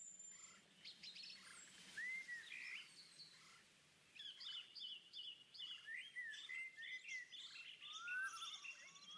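Faint songbirds singing, a mix of chirps and whistled notes. A run of quick repeated notes comes in the middle and rising whistles near the end.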